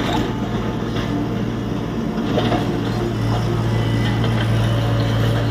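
Tata Hitachi EX70 Super Plus excavator's diesel engine running steadily, its note growing louder a little past two seconds in, with faint clatter over it.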